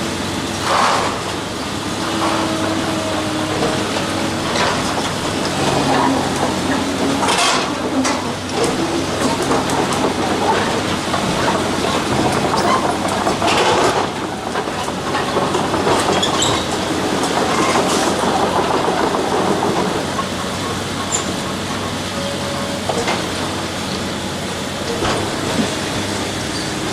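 Heavy machinery running steadily, with scattered clanks and knocks throughout.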